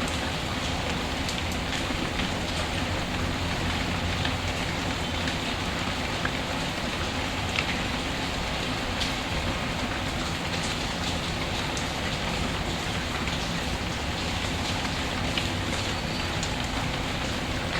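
Steady rainfall mixed with a crackling wood fire, its small sharp pops scattered through the even hiss of the rain.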